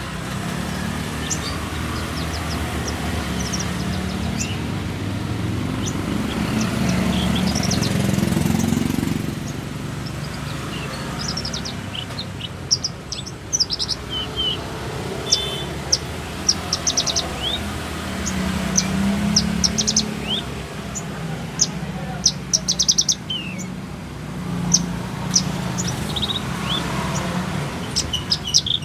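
Caged songbirds chirping and calling in short, sharp notes at irregular moments, several birds at once, over a steady low rumble that is loudest in the first third and eases off after about nine seconds.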